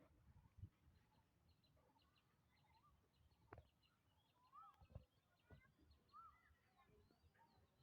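Faint birdsong: many small birds chirping, with a couple of clear arching whistled notes in the second half, and a few soft low thumps scattered through.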